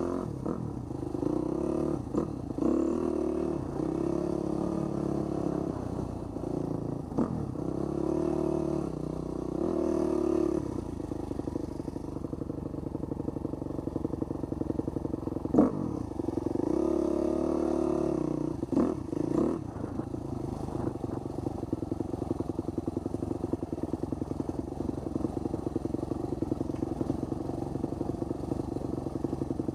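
Husqvarna 250 dirt bike engine revving up and down as it rides over a rough, muddy dirt road, with several sharp knocks and clatter from the bike hitting bumps and rocks. After about twenty seconds the engine settles into a steady, low, even running note.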